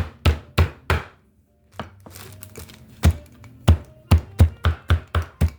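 Chicken breast in a plastic bag being pounded flat on a board: a run of sharp, regular thuds, a short pause about a second in, then the blows resume at about three to four a second.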